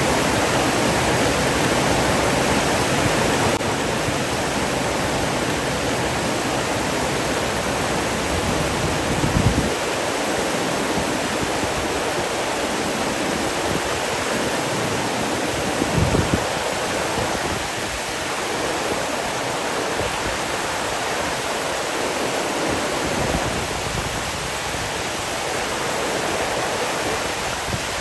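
Rushing water, a steady flowing noise like a stream or waterfall, with two brief low thumps about a third of the way through and a little past halfway.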